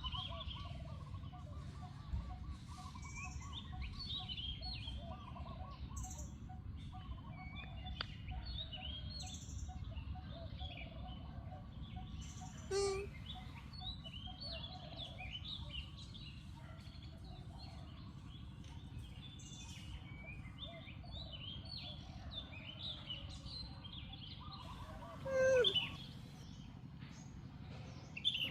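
Many overlapping high chirping animal calls over a steady low rumble, with lower trilling calls early on. A brief louder call comes near the middle, and a louder call falling steeply in pitch comes near the end.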